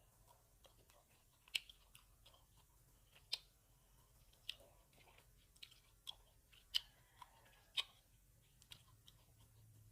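Grapes being chewed: sharp, crisp pops as the skins are bitten through, about nine at irregular intervals, with soft wet chewing between them.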